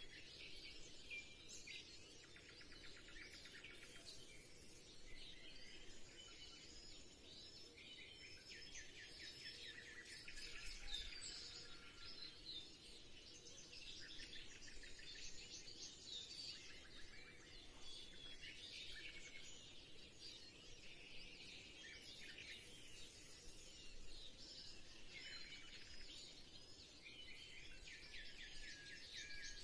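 Small birds chirping and trilling faintly and continuously.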